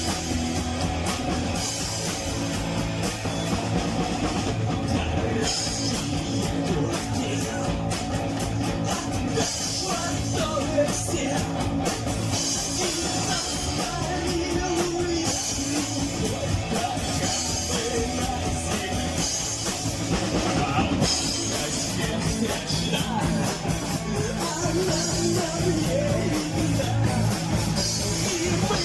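Rock band playing with drum kit and electric guitars, an instrumental stretch without transcribed vocals.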